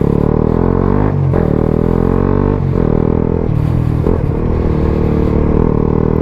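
Suzuki GSX-S125's single-cylinder four-stroke engine through a Mivv GP Pro exhaust, pulling away under throttle: the revs climb, drop at an upshift about a second in and again at about two and a half seconds, dip briefly once more, then hold fairly steady.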